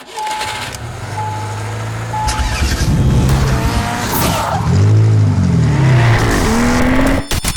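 Three short, even beeps about a second apart, like a race-start countdown, followed by a car engine revving up and down with tyre squeal. The sound cuts off sharply near the end.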